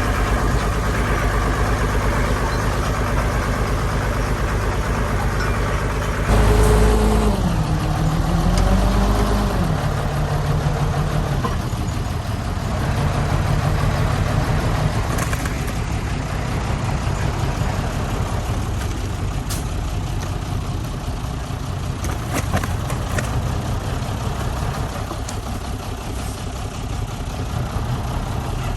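Heavy diesel engine of construction machinery running. About six seconds in it gets louder and revs, its pitch dipping and rising for a few seconds, then it settles back to a steady run.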